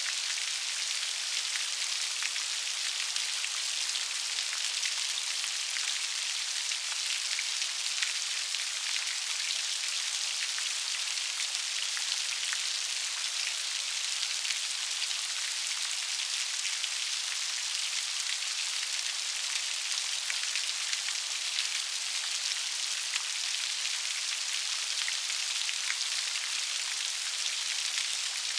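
Steady rain falling, an even hiss dotted with many small, sharp raindrop patters.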